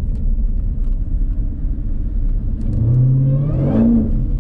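Jeep Grand Cherokee Trackhawk's supercharged V8 running at low speed with a steady low rumble; about three seconds in the engine note climbs as it accelerates, with a rising whine near the end.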